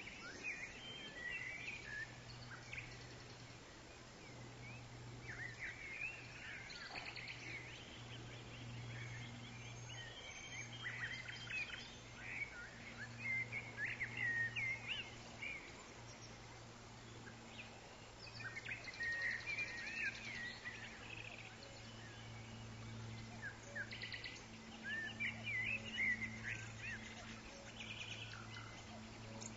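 Forest ambience: several bouts of quick, high chirping and trilling bird calls that come and go, over a steady low hum.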